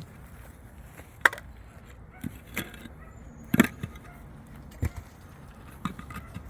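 A handful of separate knocks and clunks at irregular spacing, roughly one a second. The loudest come about a second in and just past halfway, over a low steady background.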